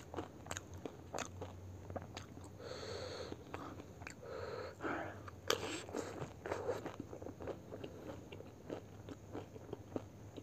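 Close-miked chewing of pani puri with a full mouth: irregular crisp crunches and wet mouth clicks, with a couple of longer, breathier sounds about three and four and a half seconds in.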